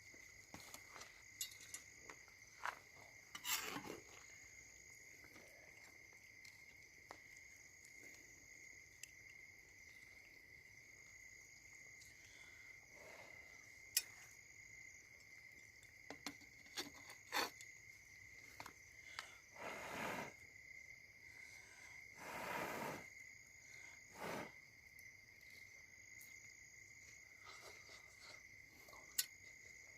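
Insects chirping steadily in a faint, continuous high ringing, with scattered sharp clicks and a few brief louder rustles.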